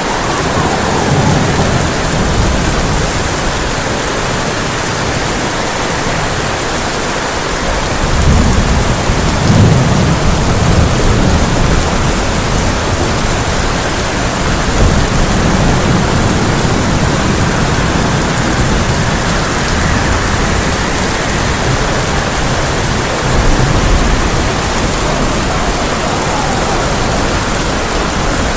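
Heavy rain on a tin roof, a steady loud hiss, with several low rolls of thunder swelling up under it, the strongest about ten seconds in.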